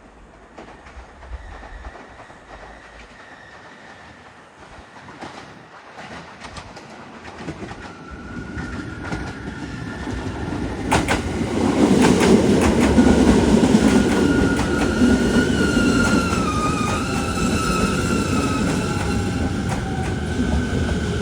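JR East 209 series electric commuter train pulling into a station platform: its rumble builds over the first ten seconds or so, with clacks of the wheels over rail joints. Once it is close, a whine from the train slides down in pitch as it brakes to a stop.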